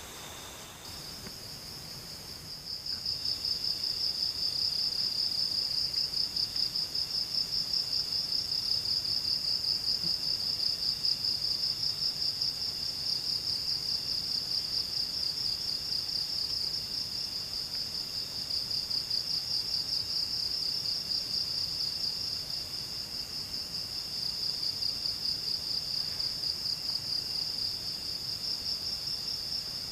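An insect trilling: a high-pitched, fast-pulsing buzz that starts about a second in and keeps going steadily, with a fainter second insect call pulsing on and off just below it.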